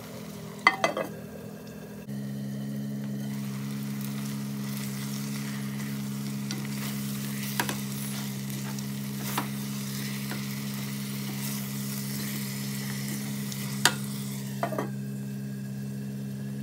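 Meat and onions sizzling in a clay pot while a spatula stirs them, with a few sharp knocks of the spatula against the pot. A steady low hum runs underneath, getting louder about two seconds in.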